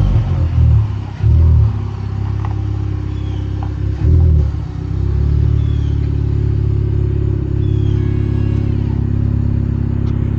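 Honda Civic Type R engine revved in several short blips, then running steadily.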